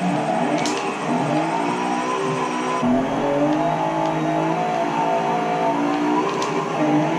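BMW E36 engine revving under hard driving, its pitch climbing and then holding steadier, with a sudden change in the sound about three seconds in.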